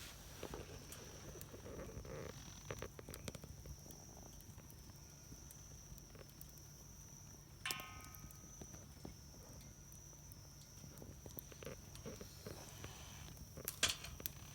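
Wood fire crackling in a Solo Stove Campfire stove, with sparse small pops and a louder burst of pops near the end.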